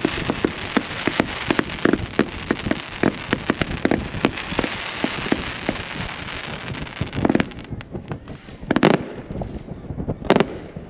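Compound fireworks cake firing: a rapid run of shots and reports, several a second, thinning in the second half to three louder bursts about a second and a half apart.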